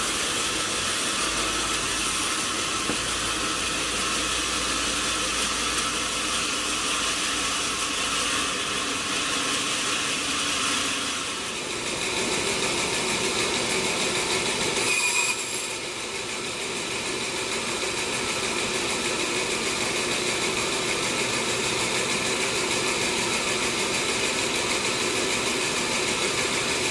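Sawmill machinery running steadily on a large teak log. Its tone shifts a little under halfway through, and there is a brief louder moment just past the middle.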